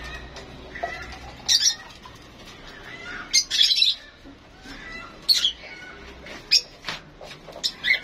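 Caged pet birds chirping and squawking, a string of short, sharp, high calls roughly once a second.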